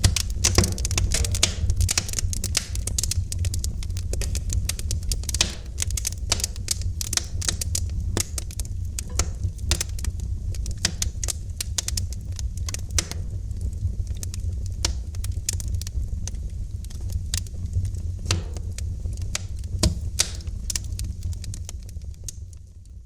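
Wood fire crackling in a fireplace: dense, irregular snaps and pops over a steady low rumble, fading down near the end.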